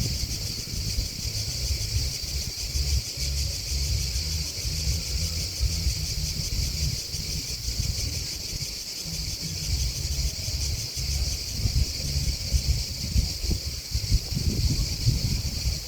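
Steady, high-pitched chorus of chirping grasshoppers and crickets, made of a fast continuous trill, with an uneven low rumble underneath.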